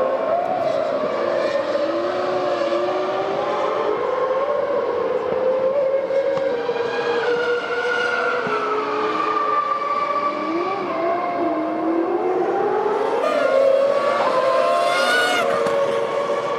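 Several Formula One cars' 3.0-litre V10 engines at high revs, their pitches rising and falling over one another, with one car passing close and loudest near the end.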